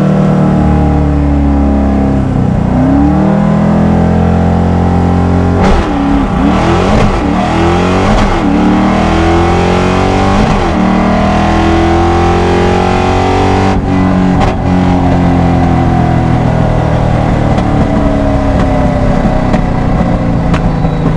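Loud car engine running close by, its pitch rising and falling several times as it revs, with brief sharp noises about six and fourteen seconds in.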